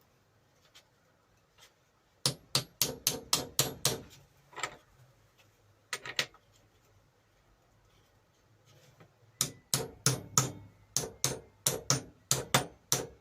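Repeated sharp hammer taps, knocking a tight-fitting part onto a bench grinder's spindle that won't slide on: a quick run of about eight taps, a few single ones, then steady tapping about three a second from about nine seconds in.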